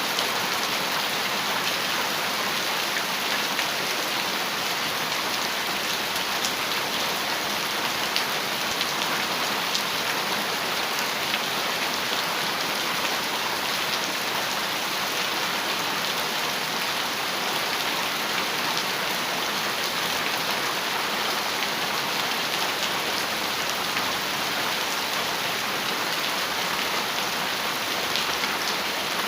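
Heavy rain falling on a metal roof: a steady, dense hiss of drops with scattered sharper ticks, unchanging throughout.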